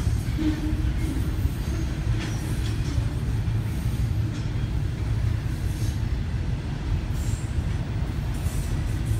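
Intermodal freight train's trailer and container cars rolling past: a steady low rumble of steel wheels on rail, with a few faint clicks.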